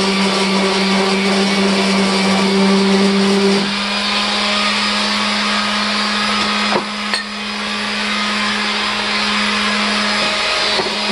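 Electric motor of a shop power tool running steadily with a strong hum; its tone changes about a third of the way in, and there is a brief dip with a click a little past the middle.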